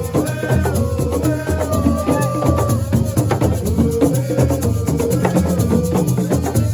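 Live dance music driven by fast hand percussion and shakers over a heavy bass line, with a high, wavering melody line in the first few seconds.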